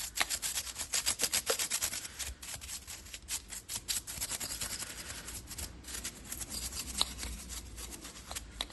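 A stiff brush scrubbing grime off an engine in quick back-and-forth strokes.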